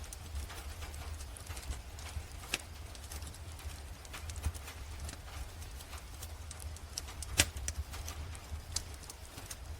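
Wood fire crackling, with irregular sharp pops and one louder pop about seven and a half seconds in, over a steady low rumble and a soft, even hiss of rain.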